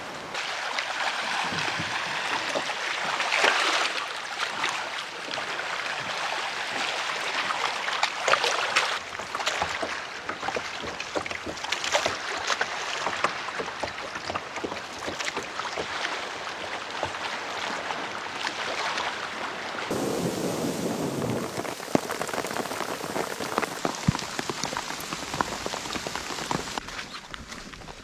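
Steady rain with many close drops ticking sharply; the sound changes abruptly a few times, about two-thirds of the way through and again near the end.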